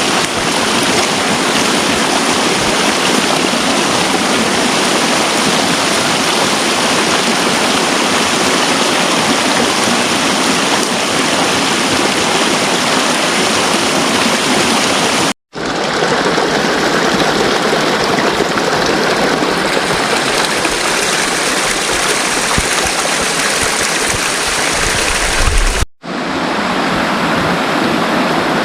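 Steady, loud rush of water noise. It drops out abruptly for an instant twice, about halfway through and again near the end.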